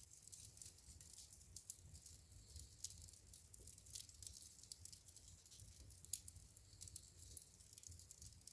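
Burning wood in a fireplace crackling faintly, with scattered small pops and snaps over a low rumble. Two snaps stand out, one just under two seconds in and one about six seconds in.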